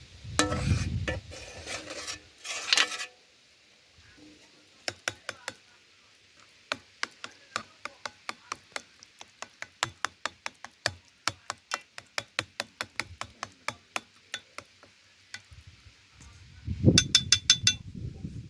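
Cooking utensil working in cookware: a few seconds of scraping, then a long run of sharp taps at about two to three a second, and a quick rattling clatter with a metallic ring near the end.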